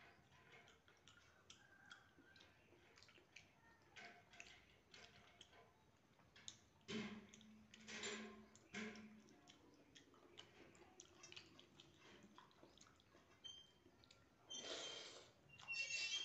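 Faint chewing and small wet mouth clicks of someone eating soft rice by hand, with a few louder mouth sounds about seven to nine seconds in and again near the end.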